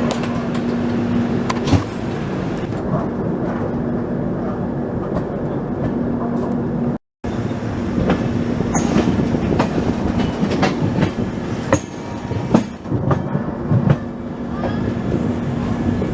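Passenger train running along the track, its wheels clacking over rail joints, with a steady rumble and a low hum throughout.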